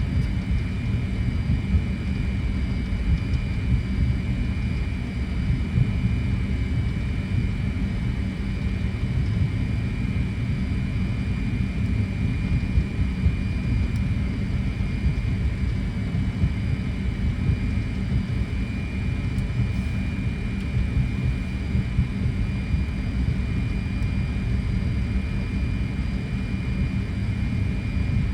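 Fokker 100 airliner taxiing, heard in the cockpit: a steady low rumble with a thin, constant high whine over it, the engines at idle.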